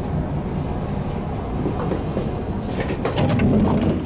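Train running with a steady low rumble, heard from beside the door inside the carriage as it draws into a station. About three seconds in the noise gets louder with clattering as the door beside the listener slides open.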